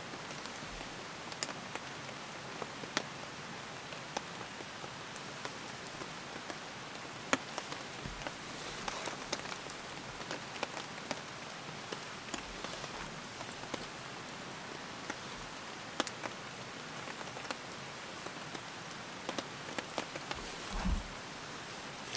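Steady rain falling, with scattered sharp drips striking close by. There is a single dull low thump near the end.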